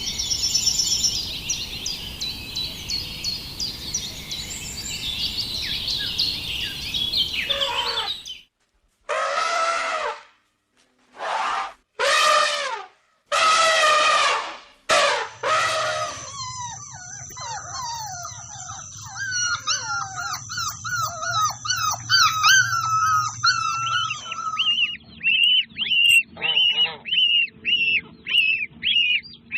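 A series of bird calls. A dense chorus of high chirping runs for about eight seconds. After a brief break come about six separate loud calls, then a long run of quick, repeated calls.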